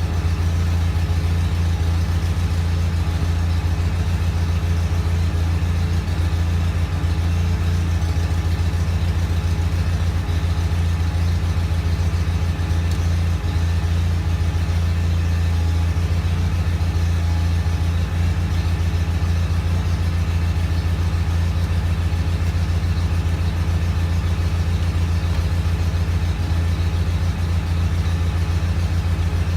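John Deere 318 garden tractor's Onan twin-cylinder engine running steadily at an even speed while the tractor blows snow with its Model 49 snowblower.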